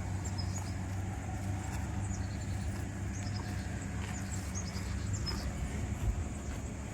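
Steady low hum of an engine running, with faint short high chirps over it.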